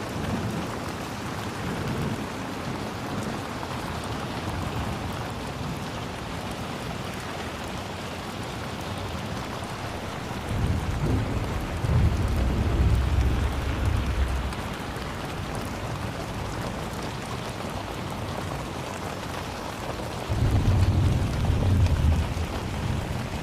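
Steady heavy rain falling, with a low rumble of thunder rolling in about ten seconds in and another near the end.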